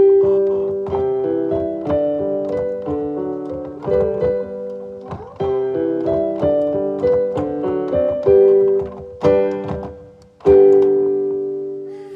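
Background piano music: a slow melody of single struck notes over held lower notes, each note fading after it is played.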